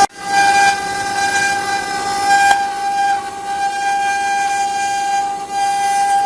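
CNC wood-carving router running, its spindle giving a steady high whine as it cuts. There is a brief break right at the start.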